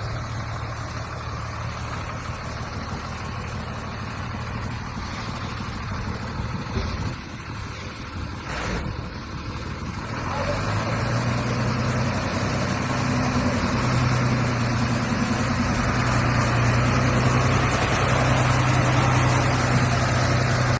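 Heavy diesel dump-truck engine running steadily, growing louder from about ten seconds in.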